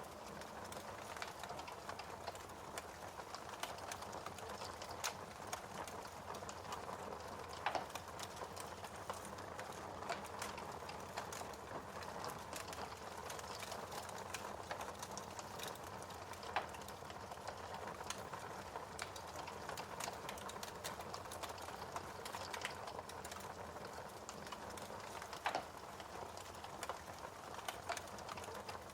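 Wood fire crackling in a fireplace: a steady low hiss of burning with irregular sharp snaps and pops, a few louder pops standing out at about 8, 16 and 25 seconds in.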